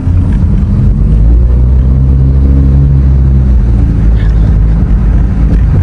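Sports car's engine and exhaust droning steadily as it drives, a low hum that swells a little in the middle, heard from inside the cabin.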